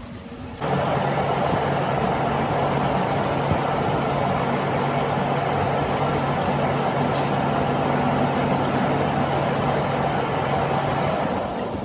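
A machine running steadily with an even hum, switched on abruptly about half a second in and dropping away near the end.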